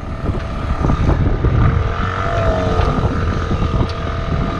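Sailboat's auxiliary engine running steadily under way, a low rumble with a steady hum, against gusts of wind on the microphone.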